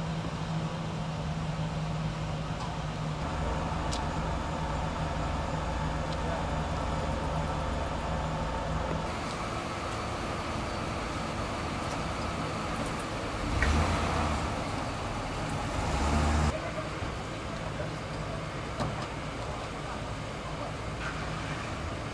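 Steady street noise of vehicles running, with a louder vehicle sound swelling about two-thirds of the way through and then cutting off.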